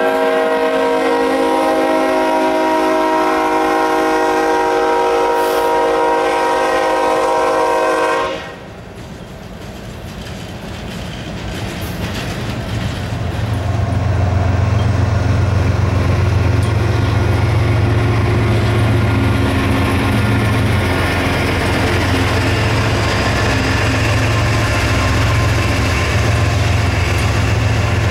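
Diesel freight locomotive horn sounding one long multi-note chord that cuts off about eight seconds in. After it comes the rumble and clatter of tank car wheels on the rails, and from about halfway a low diesel locomotive engine drone that grows and holds as another BNSF locomotive rolls past.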